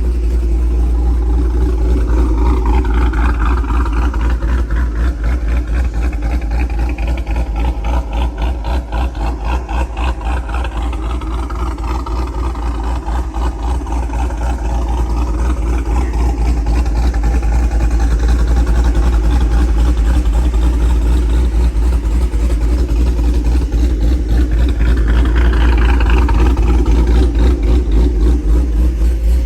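GMC Sierra's 5.3-litre V8, fitted with a Brian Tooley Racing stage 4 cam, long-tube headers and an equal-length exhaust, idling with a rapid, even pulse of exhaust beats, heard from outside the truck.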